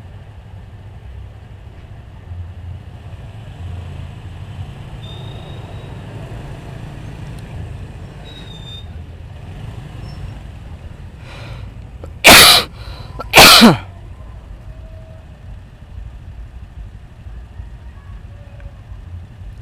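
Steady low rumble of engines or traffic, broken about twelve seconds in by two loud, short bursts about a second apart.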